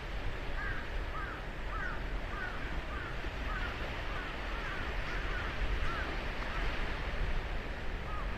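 Steady wash of ocean surf breaking on a sandy beach, with a bird calling over it in a quick run of short chirps for most of the stretch, then again near the end.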